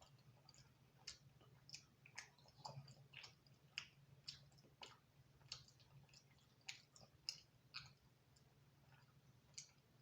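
Close-miked chewing of thin, crispy-crust pizza: soft irregular crunches and mouth clicks, about one or two a second, over a faint steady low hum.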